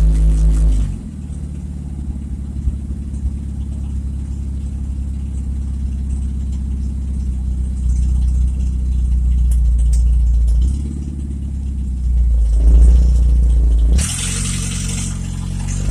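Car engine with a loud, leaky exhaust running while driving, its low drone easing off and building again. There is a brief burst of hiss near the end.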